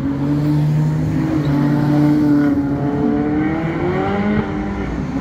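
Sports car engines accelerating: a loud, steady engine note that climbs in pitch about three seconds in, then breaks off.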